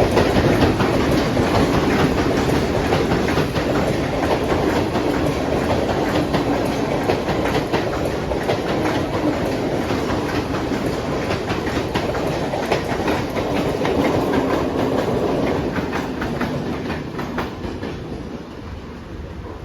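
Mumbai suburban electric local train running past on the tracks, its wheels clattering over the rail joints in a steady run of clacks. The sound fades over the last few seconds as the train moves away.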